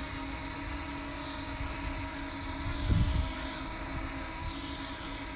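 DJI Mini 2 drone's propellers whining steadily, over a low rumble of strong wind on the microphone. About three seconds in, a brief low thump of a wind gust hits the microphone.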